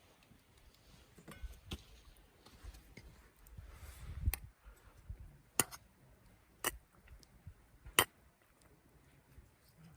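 A few sharp clicks and knocks: four loud ones about a second apart in the second half, with fainter taps between.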